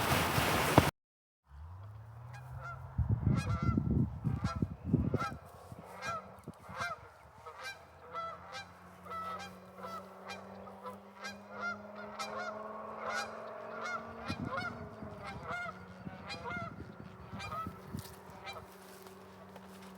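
A flock of geese honking over and over, many short calls overlapping, with a steady low drone underneath. It opens with about a second of wind rumble on the microphone before a brief break.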